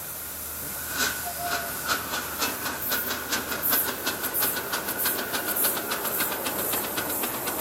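Miniature live-steam locomotive pulling away: its exhaust chuffs start slow and quicken steadily as it picks up speed. A faint steady high tone runs beneath them for most of the time.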